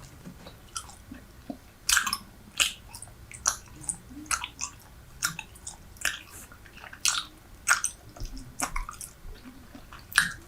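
Bubble gum (Super Bubble) being chewed close to the microphone: wet, sticky mouth clicks and smacks, a little more than one a second.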